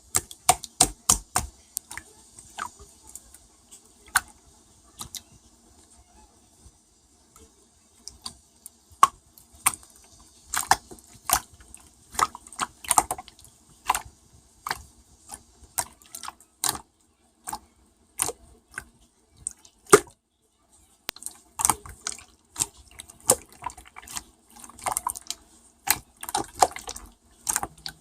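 Glitter slime being squished and poked by hand: irregular wet clicks and pops, pausing for a few seconds about five seconds in.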